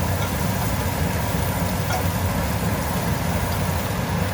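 A steady low mechanical hum, with a few faint clinks of a utensil in the frying pan as chicken and sautéed peppers and onions are moved together.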